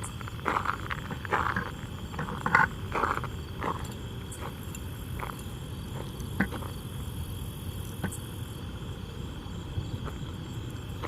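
Footsteps, about two a second, for the first three to four seconds, then they stop. After that only a few single clicks are heard over a steady low rumble and a faint, steady high-pitched drone.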